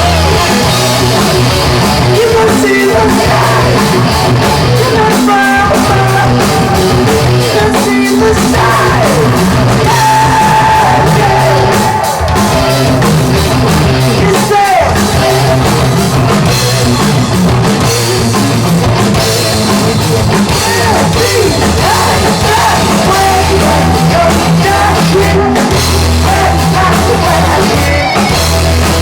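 A hard rock band playing live and loud on electric guitar, bass and drum kit, with singing.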